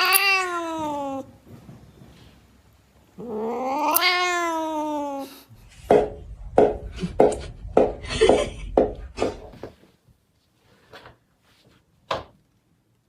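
A cat giving two long, drawn-out meows, each rising and then falling in pitch, followed by a run of short, sharp knocks and scuffles over a low rumble.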